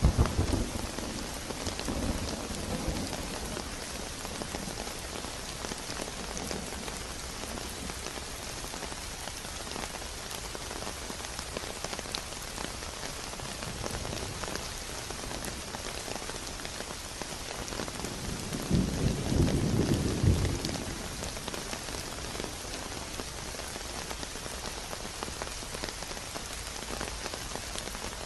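Steady rain falling on a surface, a dense even hiss with fine drop patter. Low rumbling swells rise briefly at the start, again about two seconds in, and for about two seconds near two-thirds of the way through.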